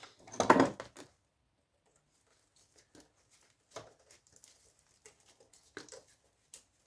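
Faint, scattered clicks and light taps from handling a computer backplane circuit board, with a brief vocal sound just at the start.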